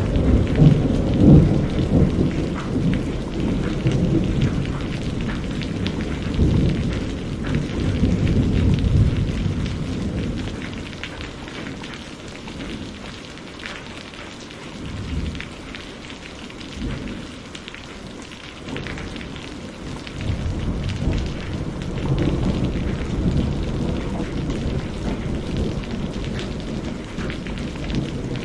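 Steady rain with rolling thunder: a long low rumble over the first several seconds that dies away, faint low rumbles in the middle, and another swell of thunder from about two-thirds of the way in.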